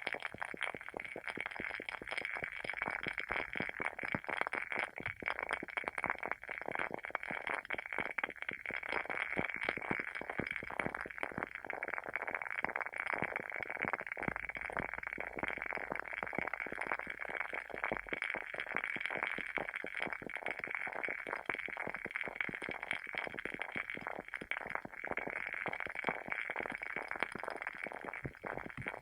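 Wooden wick of a WoodWick candle burning with a steady, dense crackle: many small pops a second, like a tiny fire.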